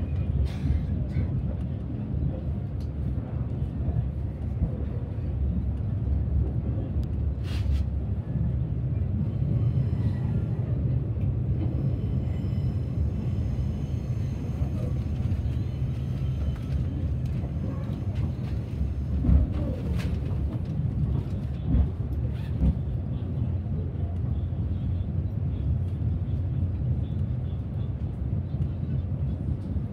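Running noise inside a moving passenger train: a steady low rumble of the carriage rolling on the rails. A few sharp clicks come from the wheels and coach, once about a quarter of the way in and twice about two-thirds through.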